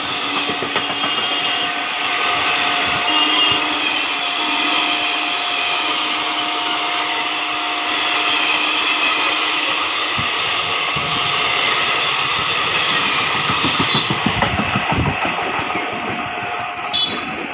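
Passenger coaches of an express train passing at speed: a loud, steady rush of wheels on rail with a few steady ringing tones through it. It eases off near the end as the last coach goes by and the train draws away.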